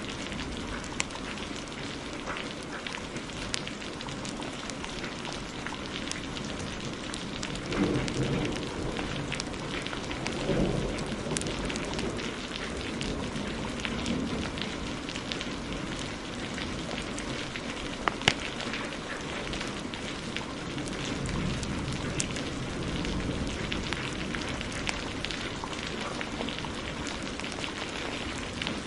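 Steady heavy rain mixed with scattered sharp crackles and pops of a wood fire. Low rolls of thunder swell up about eight seconds in and again near ten seconds.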